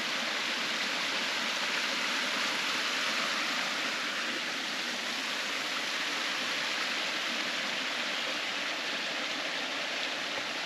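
Small waterfall and stream, a steady rush of running water.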